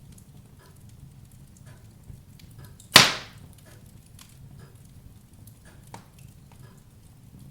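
Wood fire crackling in a fireplace: small scattered crackles, one loud sharp pop about three seconds in that dies away quickly, and a smaller snap near six seconds.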